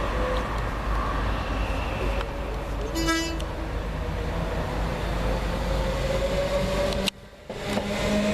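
Train running through a station, with a brief horn toot about three seconds in. The sound cuts out briefly near the end, then a steady hum follows.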